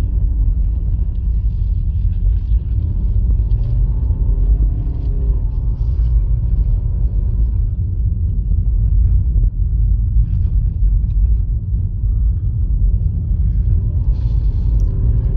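Steady low rumble of a 2020 Honda Fit heard from inside its cabin, with faint wavering tones above it.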